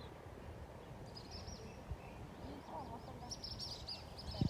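Birds calling: two runs of quick high chirps, the second longer and denser, with a lower call in between, over steady outdoor background noise.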